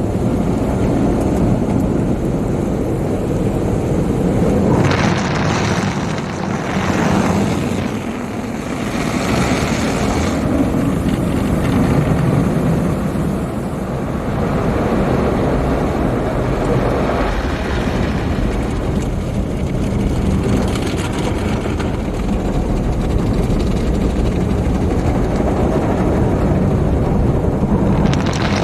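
MacNeil/Sonny's car wash tunnel equipment working over the car, heard from inside: a loud, steady rushing of water and machinery. Several swells of hissing spray sweep past.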